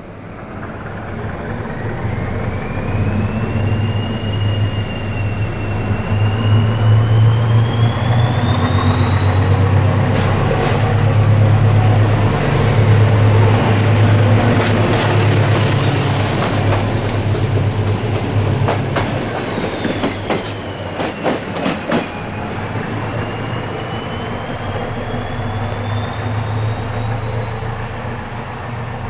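Locomotive-hauled passenger train pulling away and passing close by. A steady low drone runs under a thin whine that rises in pitch, dips briefly about two-thirds of the way through, then climbs again. Wheels click sharply over the rail joints in the middle of the passage.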